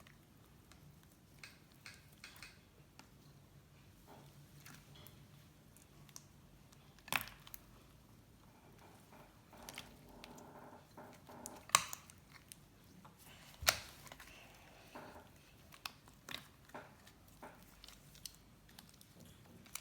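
Slime being kneaded and pressed by hand: a run of small sticky clicks and pops, with three sharper snaps about seven, twelve and fourteen seconds in.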